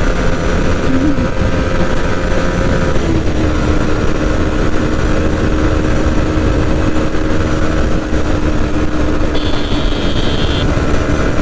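Yamaha MT-15's single-cylinder engine running at high revs near top speed, with heavy wind noise. Its steady note drops a little about three seconds in, as with an upshift into sixth, and then holds.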